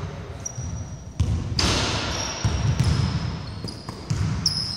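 Basketball being played on a wooden court: sneakers squeaking in short high chirps, the ball bouncing with sharp thuds, and the low rumble of players running.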